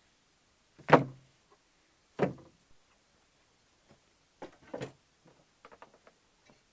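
Pieces of wood knocking as they are handled and set down: about four irregular knocks, the first the loudest, then a few light clicks near the end.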